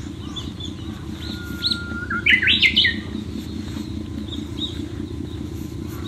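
Birds singing. About a second in, one bird gives the loudest phrase: a long steady whistle followed by quick notes stepping upward. Fainter chirps come before and after, over a steady low rumble.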